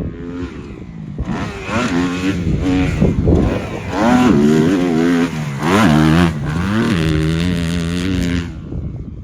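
Dirt bike engine revving hard, its pitch climbing and falling several times as the throttle is worked, then holding a steady note before dropping away near the end.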